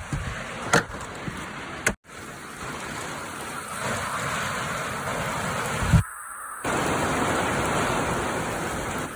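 Heavy rain pouring down in a steady hiss, briefly cut off about two seconds in and again about six seconds in.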